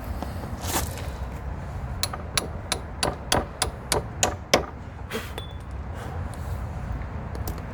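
Hammer blows on a bolt in a wooden gate: a run of about nine quick, sharp strikes, roughly three a second, then a couple of lighter knocks with a short metallic ring.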